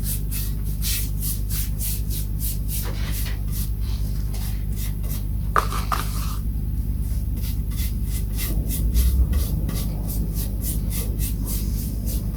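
Grain filler being rubbed into a guitar's wooden body in quick repeated strokes, about three a second, over a steady low hum.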